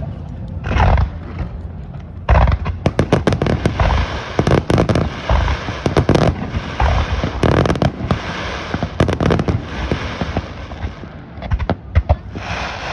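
Fireworks going off: a rapid run of sharp bangs and dense crackling, thickest from about two seconds in, easing briefly about eleven seconds in, then picking up again near the end.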